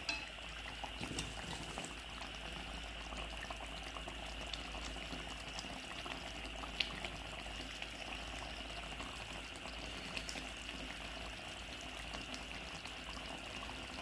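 Chicken pudina (mint chicken) cooking in a pan, simmering with a steady bubbling and scattered small pops.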